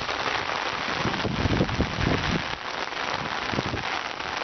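Heavy rain falling steadily, a constant even hiss, with a few low thumps between one and two and a half seconds in.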